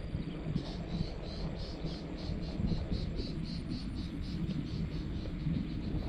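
An insect chirping in a steady, even pulse, about four chirps a second, starting about half a second in, over a low steady rumble.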